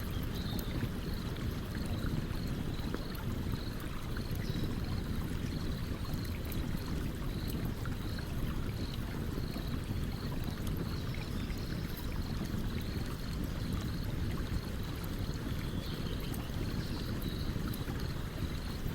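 A stream running steadily under the sparse, faint crackle of a campfire. A faint high chirp repeats about twice a second throughout.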